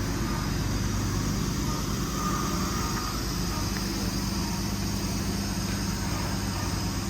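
An engine running at a steady speed, a constant low hum under a steady hiss.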